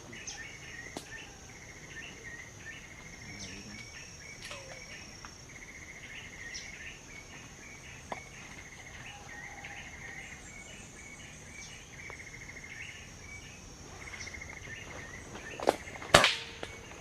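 Insects in the open country: a steady high whine with short buzzing trills repeating every second or so. Near the end come two sharp cracks, the second much louder.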